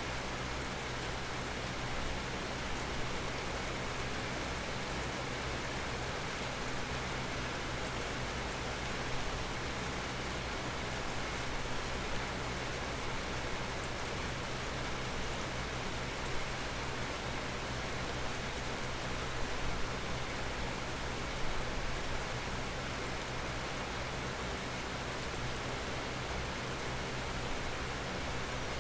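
Steady rain falling, a constant hiss with occasional louder individual drops, under an almond tree.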